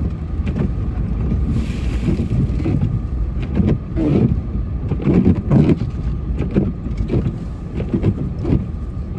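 Snowplow vehicle's engine running steadily, with irregular scraping and knocking from the plow working the road surface, loudest in a cluster around the middle.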